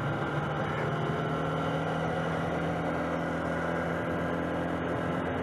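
Small engine of a motorised bicycle running at a steady speed while being ridden, an even hum with no rise or fall in pitch.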